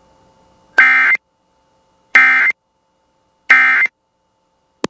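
Emergency Alert System end-of-message data burst: three short buzzy bursts of digital tones, about 1.4 s apart, closing the alert. A short sharp click comes just before the end.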